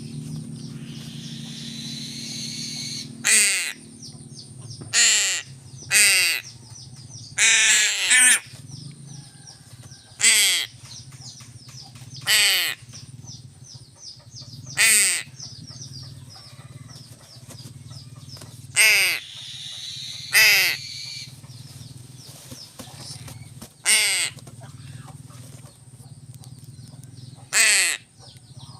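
Crows cawing: about a dozen loud single caws spaced one to four seconds apart, some coming in quick pairs, over a steady low hum.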